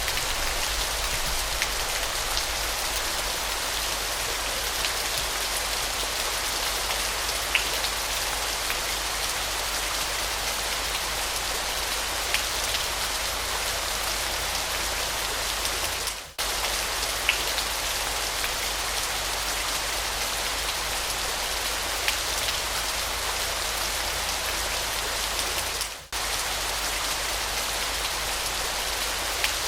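Waterfall: a steady rush of falling water with scattered droplet splashes. The sound drops out sharply for a moment twice, a little past halfway and again near the end.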